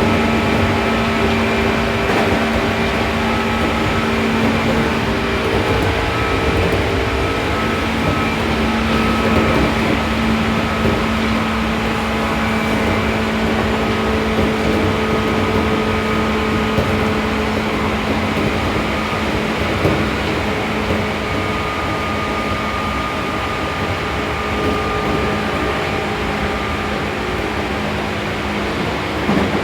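Seibu New 2000 series electric train running at a steady speed between stations, heard from inside the car: wheel and rail noise under a steady hum from the traction equipment, easing slightly in level towards the end.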